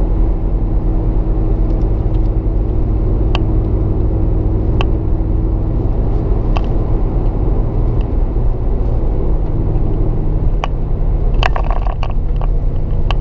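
A 2010 Jeep Grand Cherokee SRT8's 6.1-litre HEMI V8 running at steady cruise through a Borla S-Type cat-back exhaust: a low, even rumble whose note shifts slightly past the middle. A few sharp clicks sound over it, several of them close together near the end.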